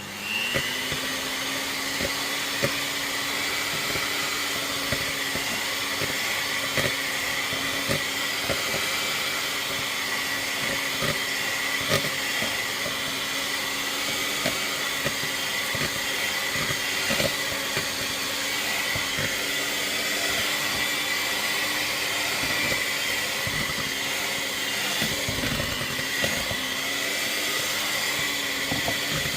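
Electric mixer running steadily on its lowest speed, beating eggs into cooled choux pastry dough, with scattered light knocks. Its pitch dips briefly near the end.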